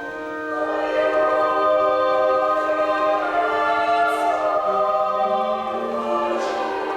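Church choir of men and boy choristers singing slow held chords with pipe organ, swelling louder about a second in.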